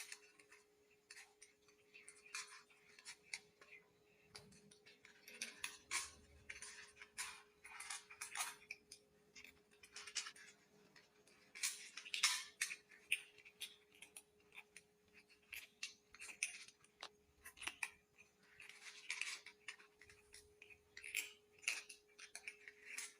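Kittens crunching dry kibble, a faint run of irregular crisp clicks and crunches in quick clusters with short pauses between.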